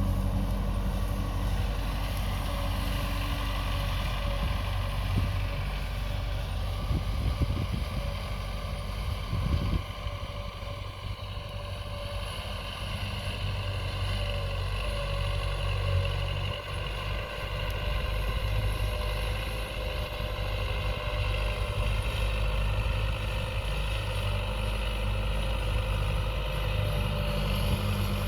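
Diesel tractor engine running steadily under load while working a field, with its deep hum dipping briefly a couple of times as the load eases.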